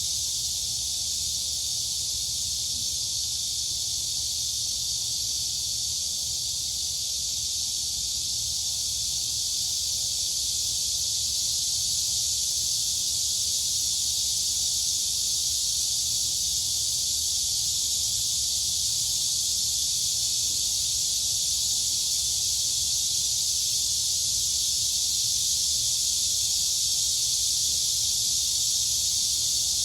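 Crickets and cicadas calling together in a dense chorus, a steady high-pitched buzzing hiss with no breaks, over a faint low rumble.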